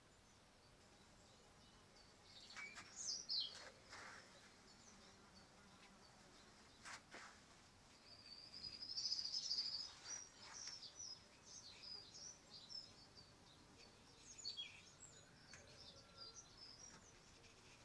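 A small bird singing: bursts of high chirps and trills, with a few quick falling whistles about three seconds in and a longer, brighter trill around nine seconds.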